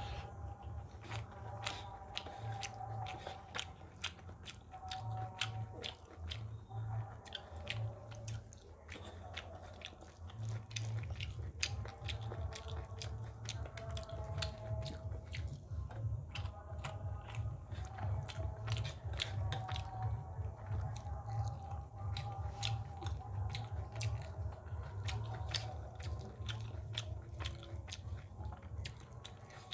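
Close-miked chewing of a mouthful of rice and potato curry, with many small wet clicks and crunches at an irregular pace. Fingers squish and mix rice into the curry on a brass plate.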